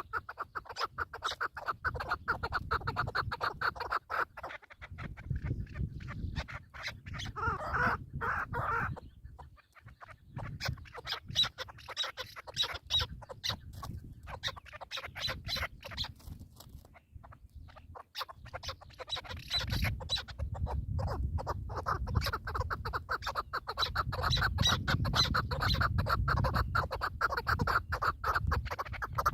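Partridges calling: long runs of rapid, repeated clucking notes, over a low rumble.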